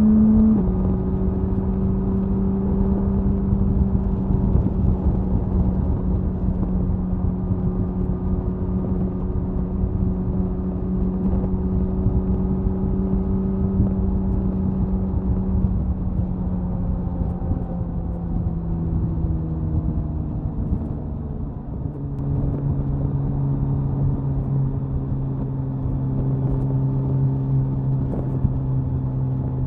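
Suzuki Hayabusa inline-four exhaust holding a steady high-speed cruise, with wind noise on the tail-mounted microphone. The engine note sinks slowly, then about 22 seconds in it dips briefly in loudness and settles on a clearly lower note.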